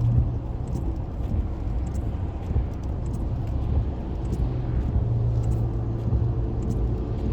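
A car driving on a rain-wet highway, heard from inside: a steady low rumble of engine and tyres. A low drone strengthens for a couple of seconds about five seconds in, and faint scattered ticks run over it.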